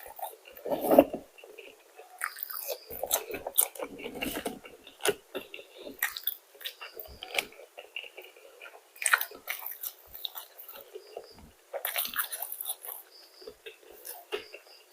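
A person eating up close, biting and chewing crunchy fried food in irregular bursts of crunching and mouth sounds.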